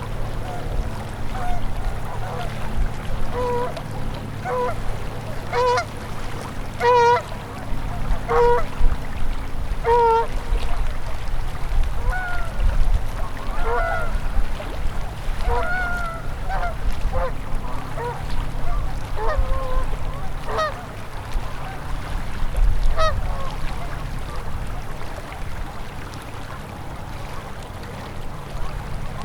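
Geese honking over and over, in short pitched calls, over the steady low rush of flowing river water; the calls thin out near the end.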